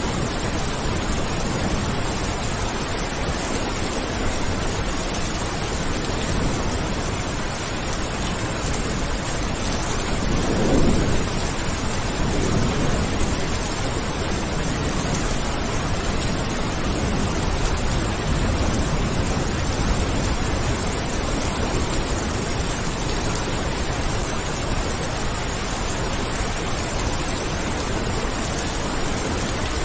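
Steady heavy rain falling, with a low roll of thunder about ten seconds in that rumbles for a couple of seconds.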